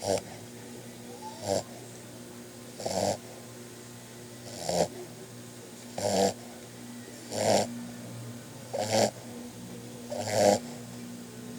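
Boxer puppy snoring in its sleep: short, rhythmic snores about every second and a half.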